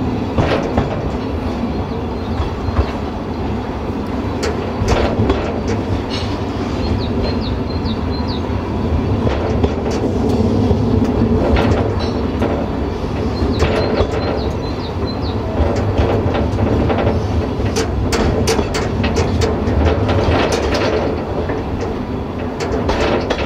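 Narrow-gauge train rolling along with a steady rumble, its wheels clicking over rail joints at irregular intervals. There are short runs of high squeaks twice.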